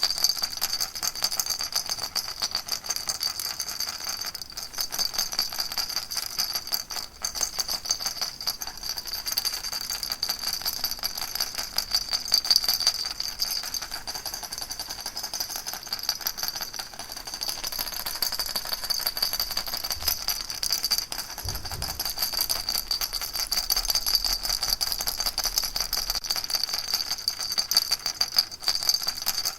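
A baby rattle shaken continuously in a fast, even rhythm: a dense, steady rattling, with a high bright tone running through it.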